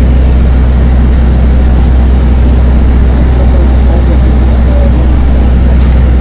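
Steady loud low rumble of an airport apron shuttle bus running, heard from inside the cabin.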